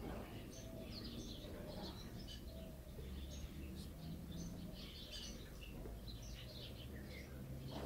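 Faint background chirping of small birds, many short high calls scattered throughout, over a low steady rumble.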